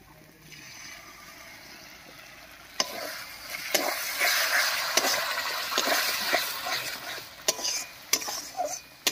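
Spice paste with freshly added tomato paste frying in hot oil in a metal kadai, sizzling while a metal spatula scrapes and knocks against the pan as it is stirred. The sizzle grows louder about three seconds in, when stirring starts.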